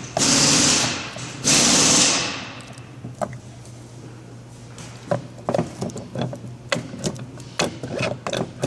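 Warn winch planetary gear parts being worked loose and handled: two loud rattling, grinding bursts about a second each at the start, then a run of light metallic clicks and knocks.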